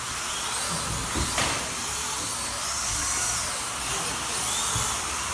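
Slot car electric motors whining as the cars race round the track, the pitch rising and falling as they speed up and slow down.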